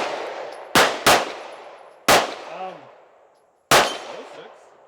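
Pistol shots on a shooting range: two fired in quick succession about a second in, another near two seconds, and a last one near four seconds, each sharp crack trailing off in an echo.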